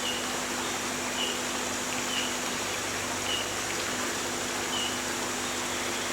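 Rainforest ambience: a steady hiss with a short, high note repeated about once a second.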